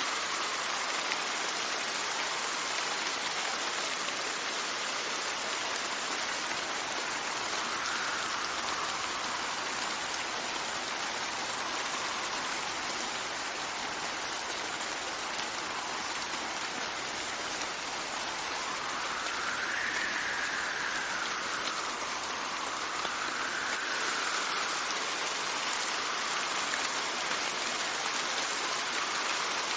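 Steady rain falling, with wind gusting in a few slow, rising and falling whistles, the strongest about two-thirds of the way through.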